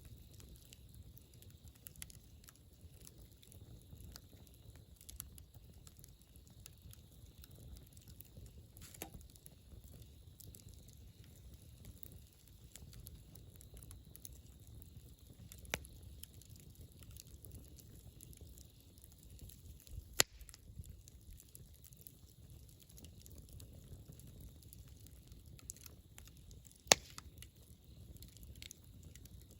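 Wood campfire burning: a low steady rumble with scattered soft crackles and a few sharp pops of the burning wood, two of them loud in the second half.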